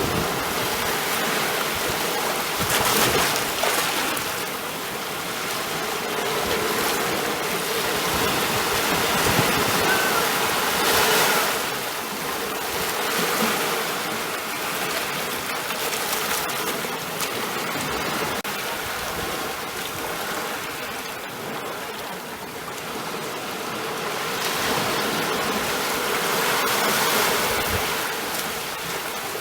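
Ocean surf: a continuous wash of waves that swells and eases several times as waves break and draw back.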